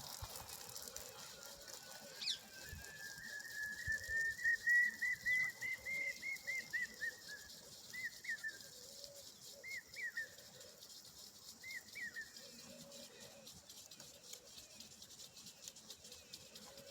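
A bird calling: a run of short whistled notes repeated a few times a second, rising a little then falling, followed by three single notes about two seconds apart.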